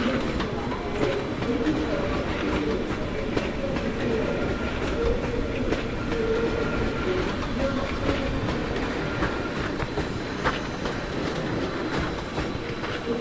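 A train running through the station: a steady rumble of wheels on track, with a few sharp clicks and faint squeal tones.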